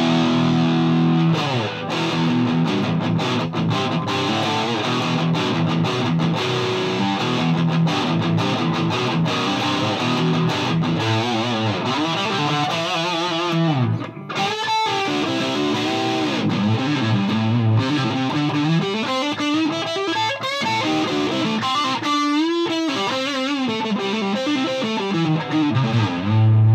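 Distorted electric guitar, a Gibson Les Paul played through a Mesa Boogie Dual Rectifier head and a Marshall 1960A 4x12 cab, set to spongy tube rectification at 50 watts. It plays sustained high-gain chords first, then a lead line with string bends and vibrato, with a brief break about halfway and a low chord near the end.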